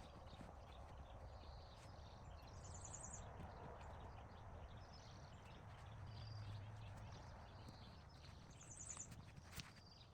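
Quiet outdoor ambience: faint scattered clicks and knocks over a low hiss, with a short, rapid, high bird trill twice, about three seconds in and near the end.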